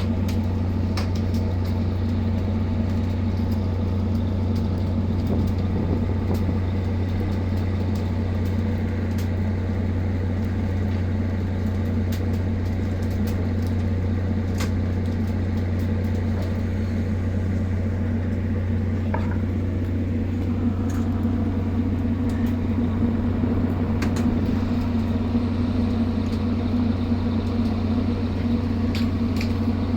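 Ship's engine running steadily, a constant deep hum with a second, higher drone, and a few faint clicks over it.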